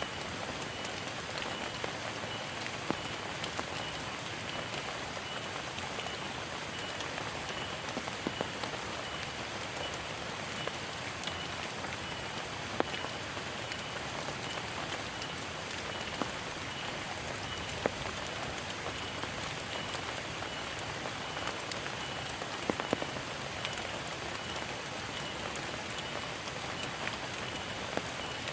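Heavy rain falling steadily, with scattered louder drops striking close by.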